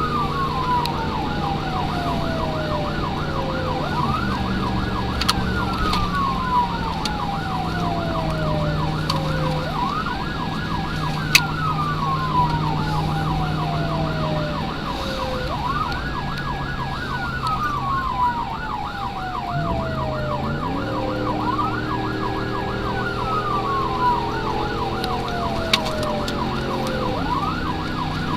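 Emergency vehicle sirens running code 3: a fast yelp warbling about three to four times a second, overlaid by a wail that rises quickly, holds, and falls slowly over about five seconds, repeating roughly every six seconds. The vehicle's engine runs underneath and revs up about two-thirds of the way through.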